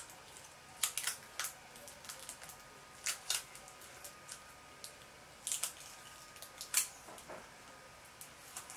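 Coloured sticky tape (sellotape) being pulled off the roll and wound around a craft stick, in short crackling pulls spaced a second or two apart.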